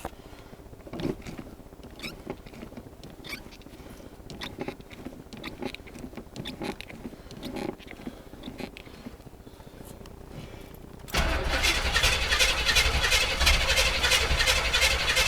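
Small-block 350 V8 in a 1981 Chevy Blazer being cranked by the starter on a cold start, beginning suddenly about eleven seconds in with a rapid, even churning rhythm and not yet firing, as fuel has not yet reached the carburetor after the truck has sat. Before it, only a few light clicks.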